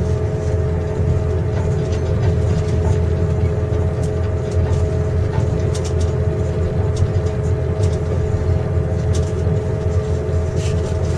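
Steady rumble of a passenger train carriage, heard from inside the compartment, with a constant two-note hum and faint, irregular rattling clicks.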